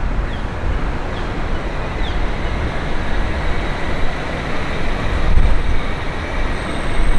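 Street traffic noise: a steady rumble and hiss of passing vehicles.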